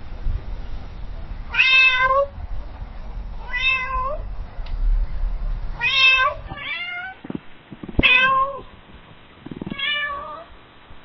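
Domestic cat meowing repeatedly, about six meows roughly two seconds apart. About two-thirds of the way through, a different recording of a cat meowing takes over.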